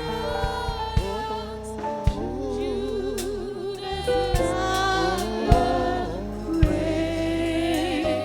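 Gospel worship music with singing over sustained keyboard chords, bass and occasional drum hits.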